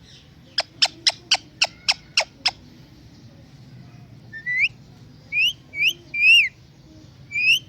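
Indian ringneck parrot calling: a quick run of about eight sharp chirps, roughly four a second, then a pause and five short whistled notes, mostly rising in pitch, one rising and falling.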